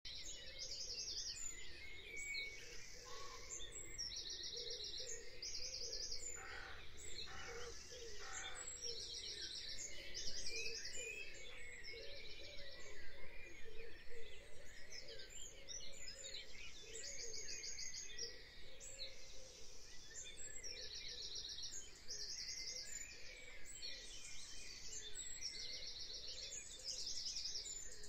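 Birdsong outdoors: several birds singing, one repeating short, fast, high trilled phrases every second or two.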